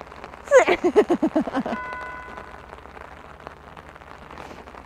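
Steady rain hissing down, with a woman giggling in a quick run of short laughs about a second in, over a tiny fish on the line.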